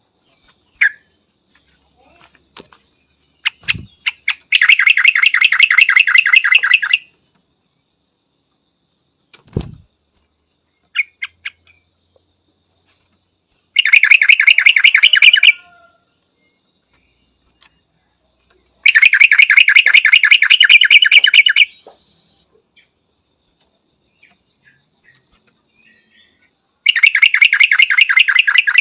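Yellow-vented bulbul calling in four bursts of rapid chattering notes, each burst about two seconds long, with short single chirps between them. Two dull low thumps come early on and again about ten seconds in.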